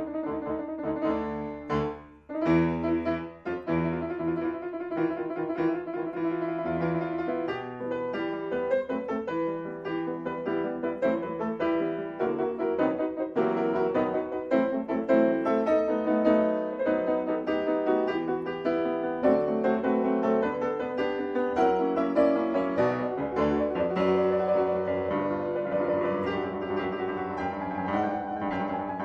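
Piano music, a steady run of notes with a short pause about two seconds in.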